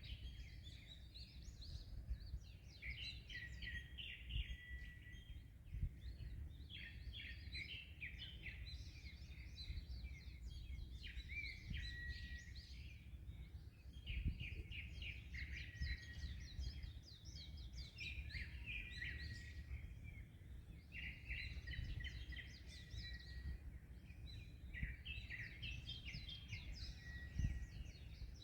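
A songbird singing short phrases of rapid chirping notes, repeated every few seconds, over a steady low rumble of wind and waves. A few low thumps of wind on the microphone.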